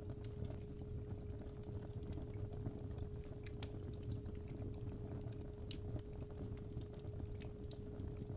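Fireplace fire crackling, irregular sharp pops over a low rumble, with a steady 417 Hz tone held underneath.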